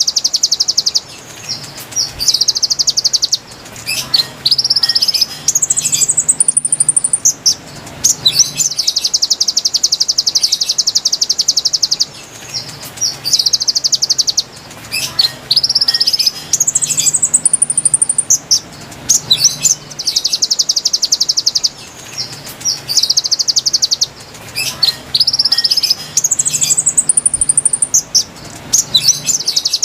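Konin bird song from a looped lure recording: long, rapid high trills alternating with short notes that step upward in pitch, the same sequence repeating about every ten seconds.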